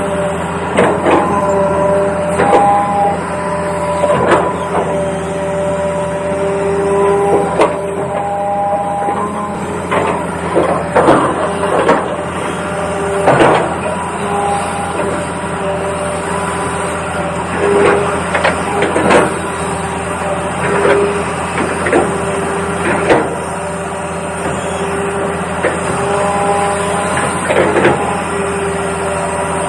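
Toy remote-control excavator working: small electric motors whining at a few steady pitches that start and stop as the controls are worked, with frequent clicks and rattles of its plastic gears and tracks.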